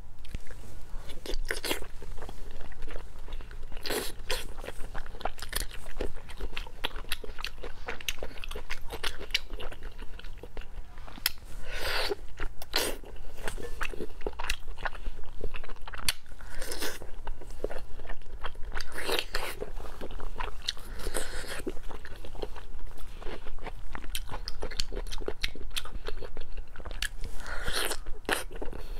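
Close-up eating sounds of a person biting and chewing glazed pork belly cubes: many short wet clicks and smacks of the mouth, with a few louder bites.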